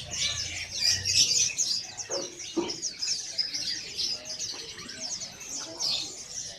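Many caged songbirds chirping and twittering together, a dense overlapping chorus of short high-pitched chirps, with a lower sliding call about two seconds in.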